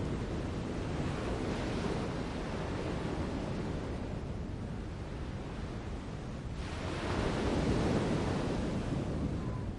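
A steady rushing noise, with no bird calls or other distinct sounds in it. It swells gently twice, most strongly about seven to eight seconds in.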